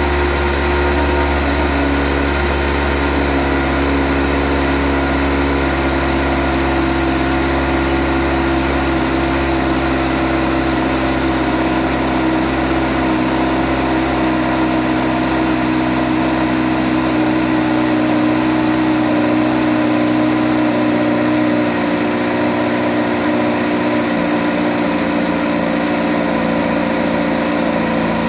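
2008 Kawasaki ZX-14's inline-four engine idling steadily, with the ticking noise that the owner is out to show.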